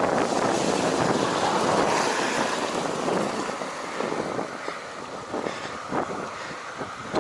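Wind rushing over the microphone of a camera mounted on a road bike while it is ridden. The rush is steady, eases after about four seconds, and a few faint ticks come through later on.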